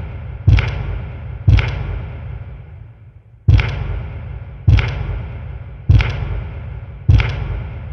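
A series of six heavy impacts, each a sharp thud with a deep low end and a long echoing decay, coming about one a second with a gap of two seconds after the second one.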